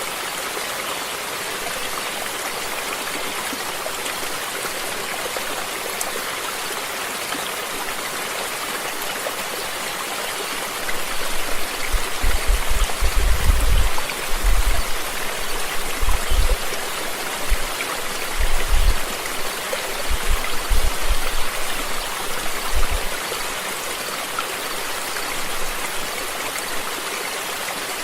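Stream water rushing steadily. Through the middle come irregular deep rumbles, louder than the water.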